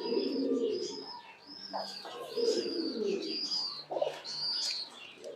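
Domestic fancy pigeons cooing, a few low rolling coos that come and go, over a steady run of short, high, arching chirps about twice a second.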